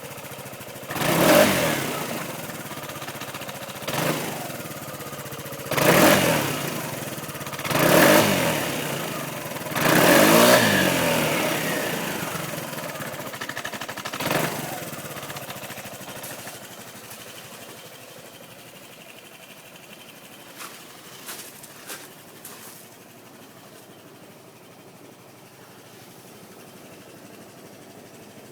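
Gilera Runner ST 200 scooter's single-cylinder four-stroke engine through its standard exhaust, blipped six times, each rev rising and falling in pitch, the longest about ten seconds in. It then settles back to a steady idle, with a few light clicks a little after twenty seconds.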